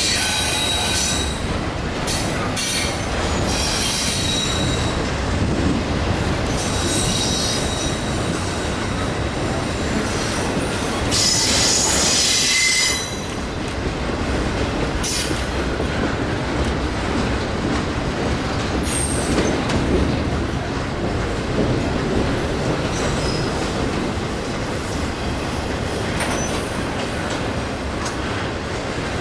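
Union Pacific train's cars rolling past, a steady rumble with high-pitched wheel squeal that comes and goes, loudest for a couple of seconds around the middle.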